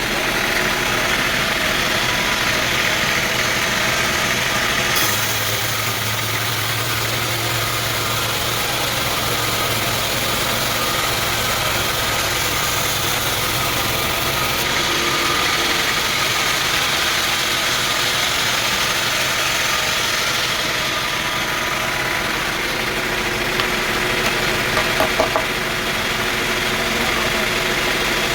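Sawmill machinery running steadily, engine-driven, with a change in tone for about ten seconds from around five seconds in and a few light knocks near the end.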